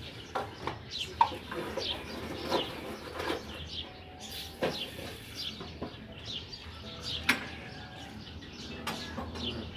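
Birds chirping in short, quick calls over and over, with a few sharp knocks about a second in, near the middle and about two-thirds through.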